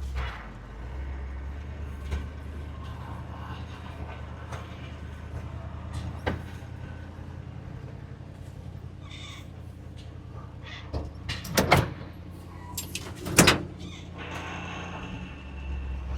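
Camper truck's V8 engine idling steadily. Several sharp knocks and clunks come about eleven to thirteen and a half seconds in.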